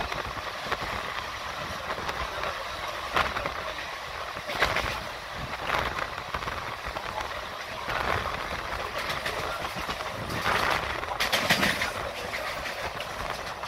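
Running noise of a moving passenger train heard from inside the coach through an open window: a steady rumble and rush, with now and then a louder clack from the wheels on the rails.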